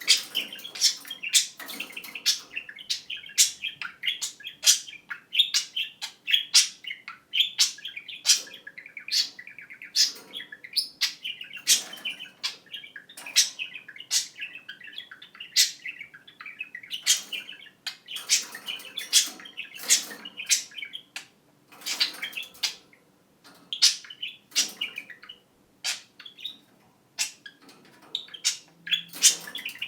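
Pet budgerigars chattering: continuous warbling punctuated by many sharp high chirps and clicks, thinning out a little near the end.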